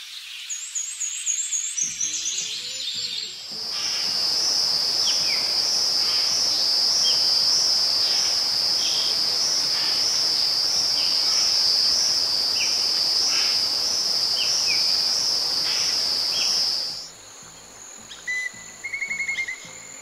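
Nature ambience: a few bird chirps, then an insect's loud, steady high-pitched trill sets in about three and a half seconds in, with short bird chirps scattered over it. The trill cuts off suddenly about three seconds before the end, leaving a quieter background and one brief bird trill.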